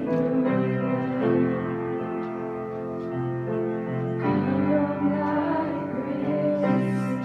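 Live worship song: sustained piano chords changing every second or two, with a voice singing over them.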